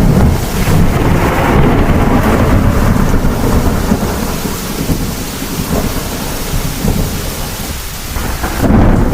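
Thunderstorm: heavy rain falling steadily under rolling thunder, the rumble easing off through the middle and surging again near the end.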